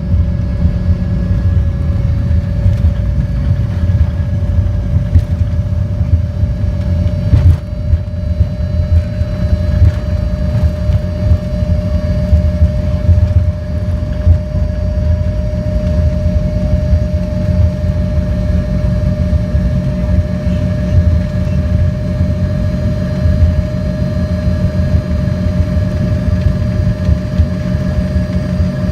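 Airliner cabin noise on approach: the jet engines and airflow make a steady low rumble, with a steady engine whine above it that edges up slightly in pitch.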